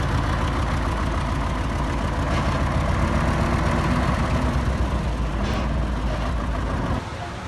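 Heavy diesel engine of earthmoving machinery running steadily, its sound strongest in the low end. The level drops suddenly near the end.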